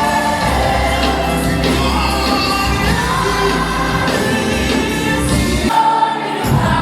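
Live gospel worship music: a choir and lead singers with a band. The bass drops out briefly near the end.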